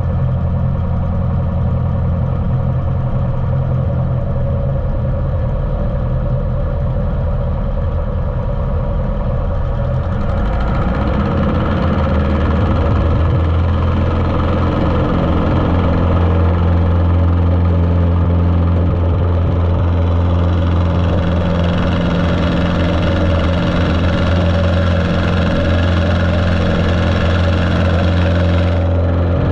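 Cessna 150's Continental O-200 engine and propeller running steadily, muffled through a GoPro's waterproof case. The sound grows fuller and slightly louder about ten seconds in and again about twenty seconds in.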